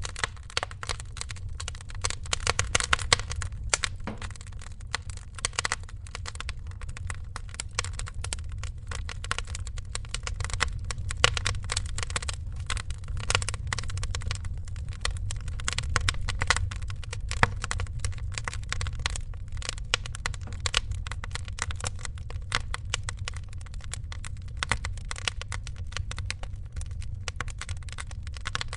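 Wood fire crackling steadily, a dense stream of small irregular pops and snaps over a low rumble.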